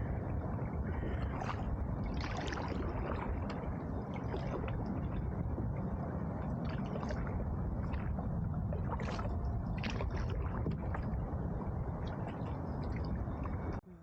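Water gurgling and sloshing around a paddled canoe, with irregular short splashes over a steady low rumble.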